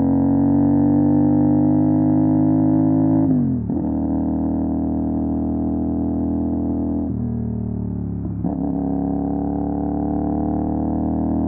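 CFMOTO 450 SR's parallel-twin engine through an MSH G6 full-system exhaust, pulling hard with its pitch climbing steadily. About three seconds in it drops sharply at a gear change. It dips and recovers again a little past the middle.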